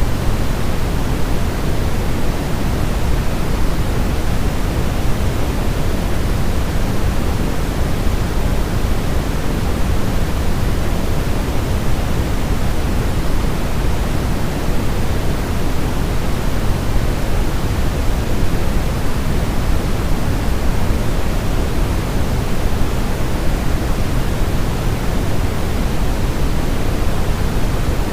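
Steady, unchanging white noise for baby sleep, fuller in the low end than in the highs, with no breaks or changes.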